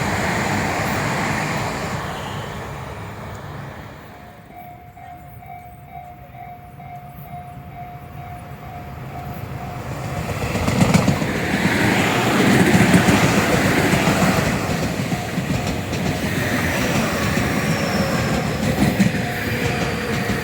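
Tobu Tojo Line electric trains passing: one fades away at the start, and about halfway in another comes through, its wheels clattering over the rail joints. A faint, evenly pulsing tone carries through the quieter middle.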